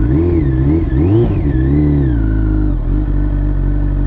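Liter-bike motorcycle engine, its revs rising and falling several times over the first three seconds, then holding steady.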